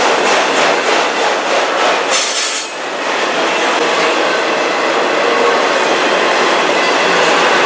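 CN autorack freight train rolling past, its steel wheels clacking rhythmically over rail joints. About two and a half seconds in, a brief high-pitched wheel squeal sounds.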